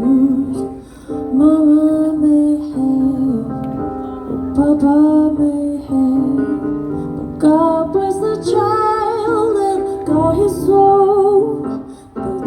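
A female jazz singer singing a slow ballad live, her voice wavering in vibrato, over instrumental accompaniment.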